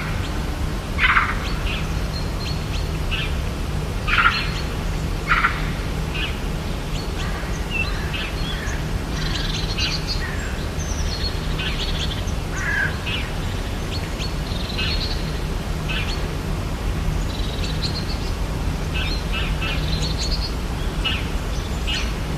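Rainforest birds chirping and calling, several at once, with three louder short calls about one, four and five seconds in, over a steady low hum.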